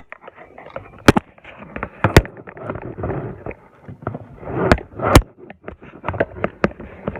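Phone and selfie stick being handled close to the microphone: a string of sharp knocks and clicks, the loudest about a second, two seconds and five seconds in, over rubbing and rustling.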